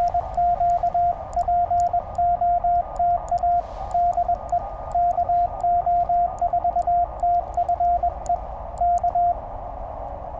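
Morse code keyed on a Penntek TR-35 QRP transceiver: a steady tone of about 700 Hz sounded in dits and dahs for about nine seconds, then stops. Filtered band hiss from the receiver fills the gaps between characters, with faint clicks along the way.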